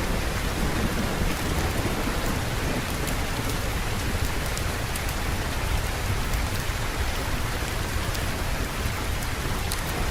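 Steady heavy rain hissing on a surface, with a low continuous rumble of distant thunder underneath and scattered faint ticks of drops.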